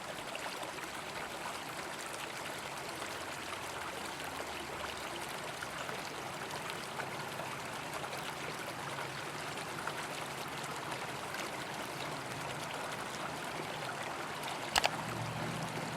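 Steady rush of flowing river water, with a quick pair of sharp knocks near the end.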